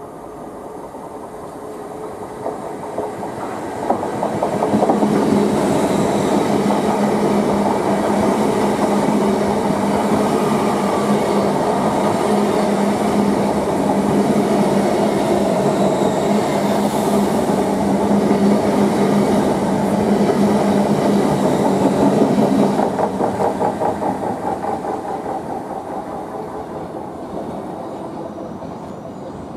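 A GWR Hitachi Intercity Express Train (Class 800-series) running close past the platform, its wheels clicking over the rail joints under a steady hum. It builds over the first few seconds, stays loud for about twenty seconds, then fades as the last carriages go by.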